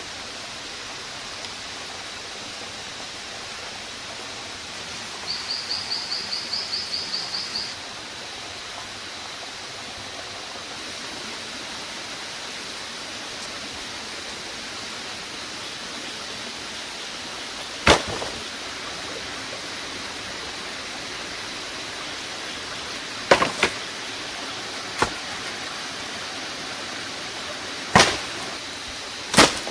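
Steady rush of running water, with a bird giving a rapid high trill of about five notes a second for a couple of seconds about five seconds in. Several sharp knocks come in the second half, one of them doubled, the last near the end.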